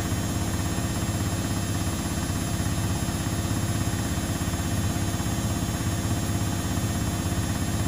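Domestic laundry appliance running: a steady low hum with an even rushing noise above it, unchanging throughout.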